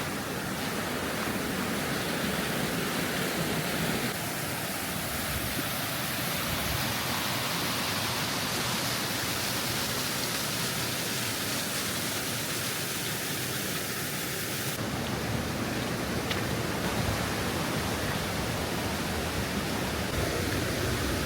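Allerheiligen waterfall cascades: falling water as a steady, dense rush. The texture changes abruptly twice, about 4 seconds in and again about 15 seconds in.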